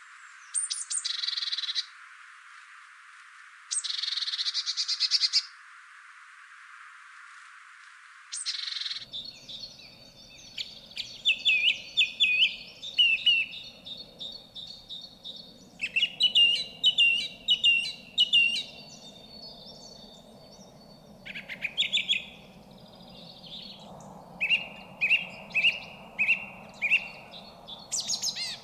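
Songbirds singing: first a few short trilled phrases, then, from about nine seconds in, a different bird giving repeated runs of quick, evenly spaced chirping notes.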